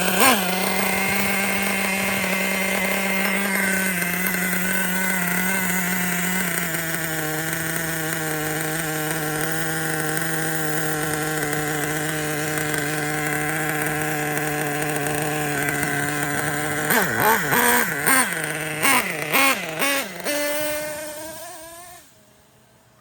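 Ofna Titan's .25 nitro glow engine idling steadily, settling slightly lower in pitch a few seconds in. Near the end it is revved in several quick blips, then stops.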